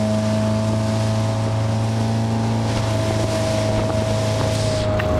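Motorboat engine running at a steady pitch, with wind buffeting the microphone and water noise from the hull.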